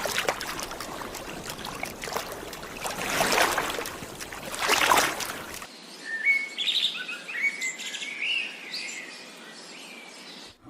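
A bird chirping in short, high notes over a faint hiss from about halfway through. Before that there is a rough, crackling noise.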